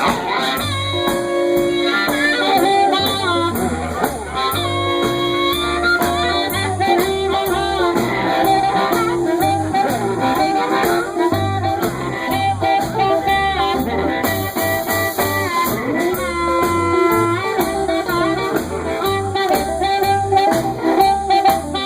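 Blues band playing an instrumental passage: held, bending melody notes over a steady bass and drum beat, before the vocals come in.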